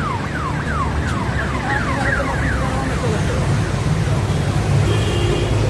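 City street traffic rumble, with a rapidly repeated falling siren-like tone, about three sweeps a second, that stops about three seconds in. Near the end there is a brief steady horn-like tone.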